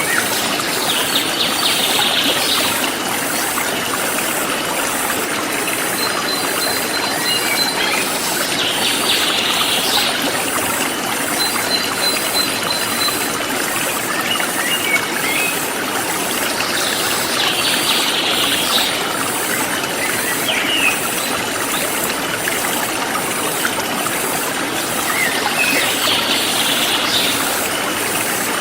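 Forest stream flowing steadily, with birds chirping now and then. A high trill comes about every eight seconds, and a fast, high insect pulsing runs over it all.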